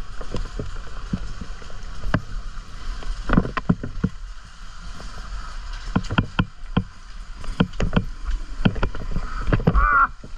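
Sur Ron electric dirt bike ridden over a rough, muddy trail: a steady low rumble broken by many sharp knocks and clunks, with a brief rising motor whine near the end.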